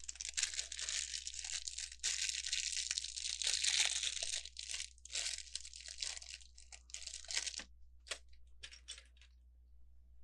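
Plastic LEGO parts bag crinkling and rustling for about eight seconds while being handled. This is followed by a few small, separate clicks of plastic bricks.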